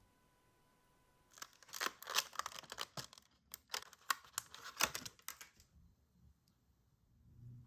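Quick, dry scratching and rustling with many small clicks, starting about a second and a half in and stopping a couple of seconds before the end.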